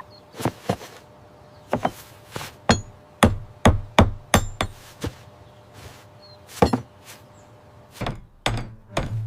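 Hammer blows on wood, a quick irregular run of strikes with a short pause past the middle.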